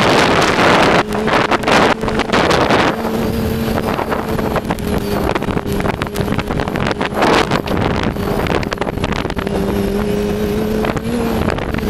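Yamaha Attak snowmobile's four-stroke engine with an Excell aftermarket exhaust, running under way as a steady drone that lifts slightly near the end. Wind rushes over the microphone in gusts during the first few seconds.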